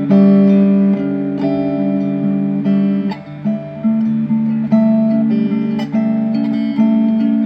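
Acoustic guitar music: strummed and plucked chords ring on and change every second or so.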